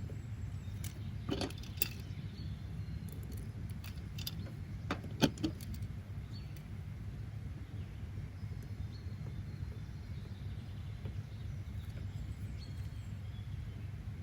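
Steady low background rumble with a few sharp clicks and taps about a second and a half in and again around five seconds in, and faint short high chirps here and there.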